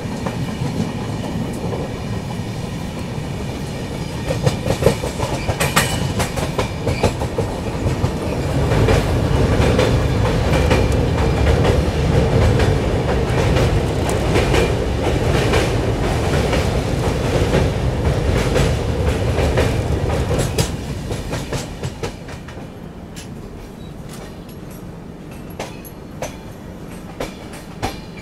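Passenger train running on the track: a heavy rumble with the wheels clacking over rail joints. It swells about a third of the way in and drops off sharply about three-quarters of the way through.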